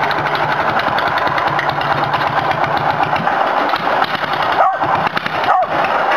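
Tractor engine running steadily and loud, with a fast, even pulsing of its firing.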